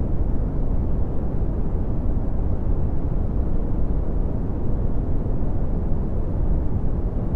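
Red (Brownian) noise: a steady, deep hiss with most of its strength in the bass and little above about 1 kHz, like a low rumble.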